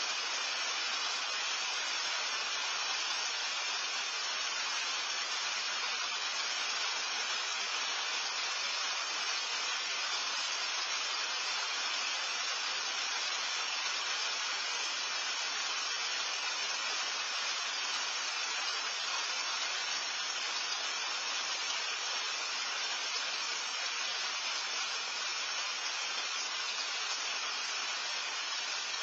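Steady rain, an even hiss with no single drops, knocks or other events standing out.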